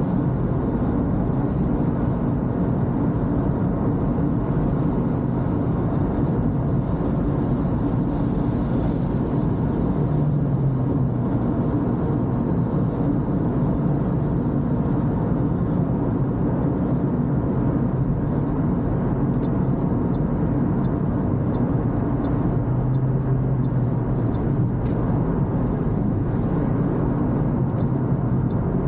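Toyota Corolla driving steadily on a wet road: a continuous low rumble of engine and tyre noise. In the second half a faint, regular light ticking sits over it.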